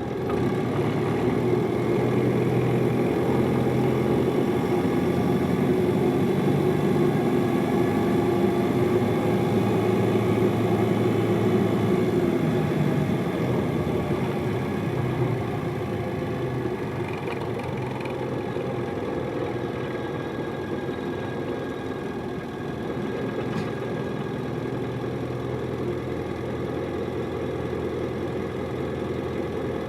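Hino Liesse small bus's diesel engine and drivetrain running, heard from inside the cabin. It is louder for the first half, then drops back to a quieter steady run from about halfway.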